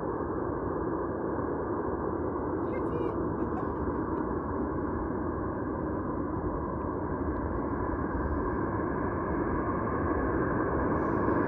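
Jet aircraft engines running: a steady, dense rumble with a whine on top that slowly grows louder.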